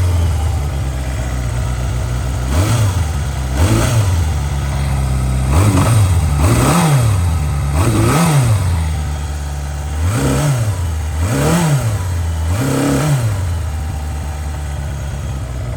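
Kawasaki Zephyr 550's air-cooled inline-four engine, on its stock exhaust, idling while still warming up from a cold start near freezing, blipped with about eight short throttle revs that rise and fall quickly from about two seconds in to near the end, then settling back to a steady idle.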